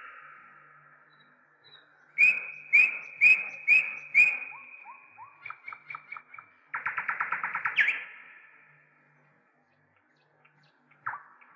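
A bird singing: five loud, evenly spaced notes about half a second apart, then a run of quicker, softer notes, a fast trill about seven seconds in, and one short call near the end.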